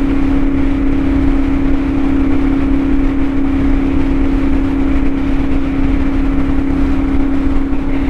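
CFMOTO 450SS parallel-twin engine with an aftermarket slip-on exhaust, running at a steady cruise and holding one unchanging pitch.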